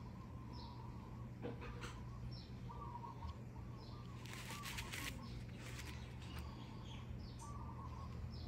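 Small birds chirping repeatedly in the background over a steady low hum, with a few brief scratchy ticks.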